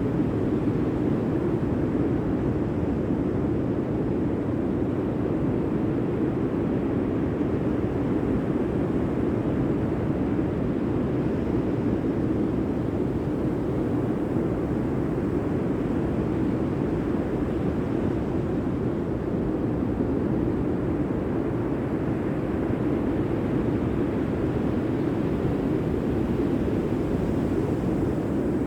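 Steady, even low-pitched noise with no rhythm or change.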